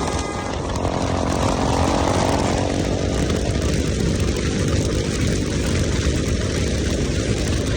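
Motorcycle engine running steadily, with a swell of louder noise during the first few seconds that dies away about four seconds in.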